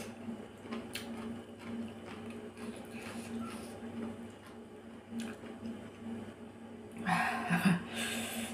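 Close-up eating sounds: a person slurping and chewing shredded carrot and salmon salad, with soft wet clicks of the mouth, and a louder, airy slurp about seven seconds in.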